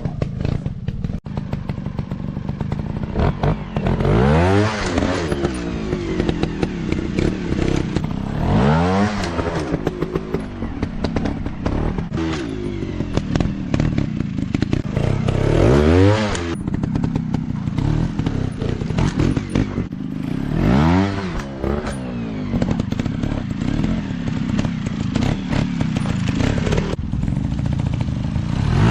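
Dirt bike engine revving up and dropping back again about five times as the throttle is opened and closed, running steadily in between.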